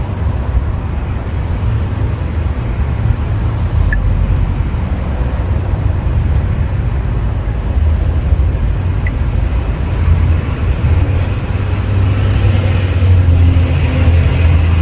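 Steady low rumble of outdoor background noise, swelling slightly near the end.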